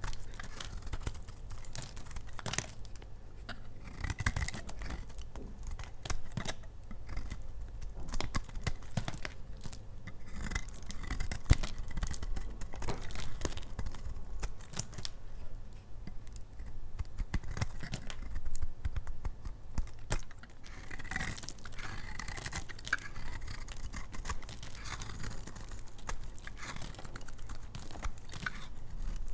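A knife cutting and scraping through dry bars of laundry soap, a continuous scratchy, crackling texture broken by frequent sharp clicks as the hard soap gives way.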